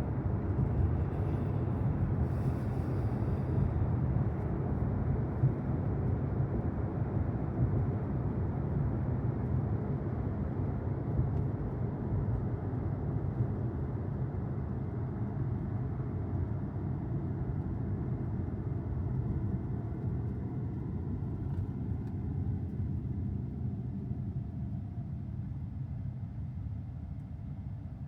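Road and tyre noise of a Tesla Model Y on the move: a steady low rumble with no engine note, growing quieter and duller towards the end.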